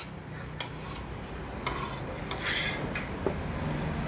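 Cutlery clinking and scraping against a plate while eating: a handful of short, separate clinks.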